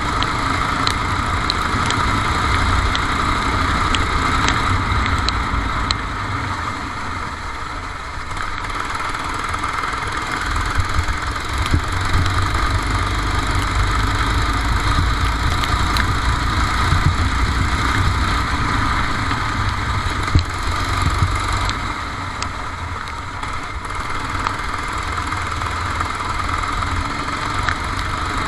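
Kart engine running at racing speed, heard onboard on a wet track; the engine note eases off twice, about a quarter and three quarters of the way through, as the kart slows, then picks up again.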